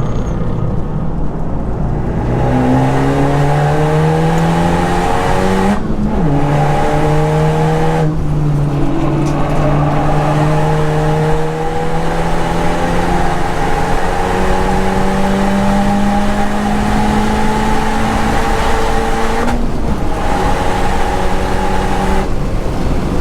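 Modified Honda Civic Type R (FK8) 2.0-litre turbocharged four-cylinder at full throttle on track, rising in pitch through the gears with brief breaks for the shifts, four times. This is the session in which the driver suspects the engine is pulling less power than it should, perhaps from a lost boost hose.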